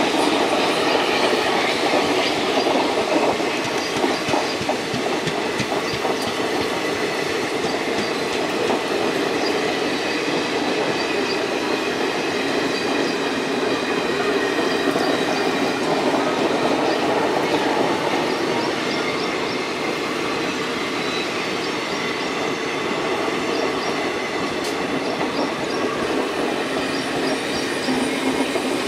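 Passenger coaches of an express train rolling slowly past on the rails: a steady rumble of steel wheels with clickety-clack over the rail joints, and at times a faint high wheel squeal.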